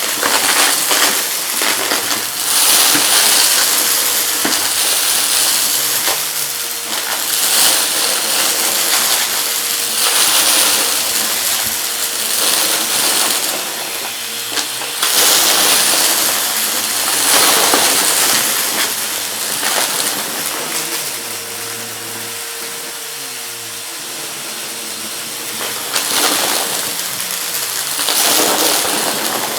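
Vacuum cleaner running with its steady motor hum and airflow rush, hard debris rattling and clattering up through it, the clatter swelling and easing several times.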